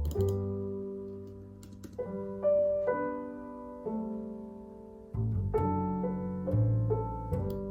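Calm piano background music: slow chords struck every second or two, each left to ring and fade, with a few faint high clicks over it.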